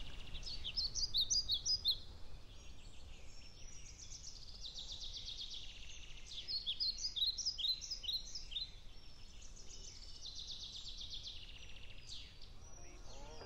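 Small songbirds singing in phrases of high chirps and fast trills, over a faint steady low background noise.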